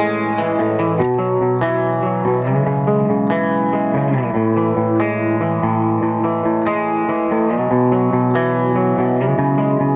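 Double-tracked electric guitar rhythm part through a Seymour Duncan bridge humbucker, tuned down to C#/drop B. Sustained chords ring out and change about a second in, around four seconds in and again late on.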